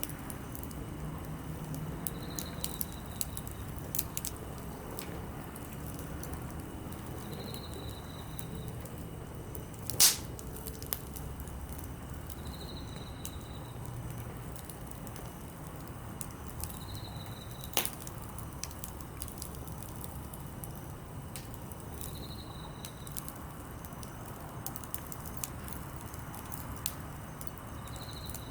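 Small wood campfire of softwood and hardwood firewood burning, with scattered light crackles and two loud sharp pops, one about a third of the way in and one a little past halfway.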